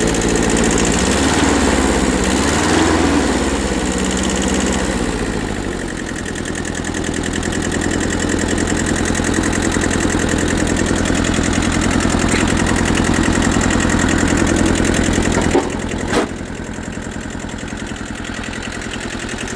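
Kubota B6000's small diesel engine running just after a starting-fluid start, having sat for years. It is revved up and down twice in the first few seconds, then settles to a steady idle. Two sharp knocks come about sixteen seconds in, after which it runs a little quieter.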